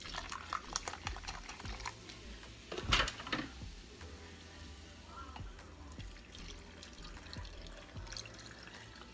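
Lemon-lime soda poured from a plastic bottle into a plastic measuring cup, fizzing and crackling, with a loud knock about three seconds in. Near the end the liquid is poured from the cup into a glass blender jar over frozen peach slices.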